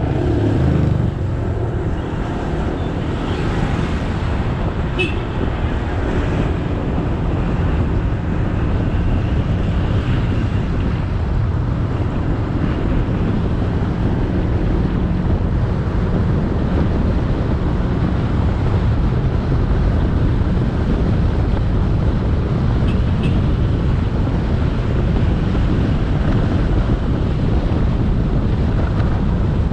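Motorbike engine running steadily at riding speed, with wind buffeting the microphone and road noise. Two brief high chirps cut through, about five seconds in and again about twenty-three seconds in.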